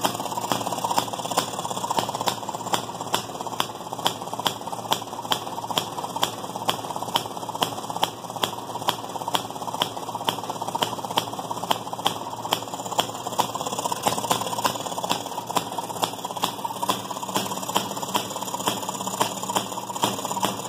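1929 Maytag gas-engine wringer washing machine running: a steady mechanical clatter from its small engine and gearing, with sharp, evenly spaced clicks about two and a half times a second.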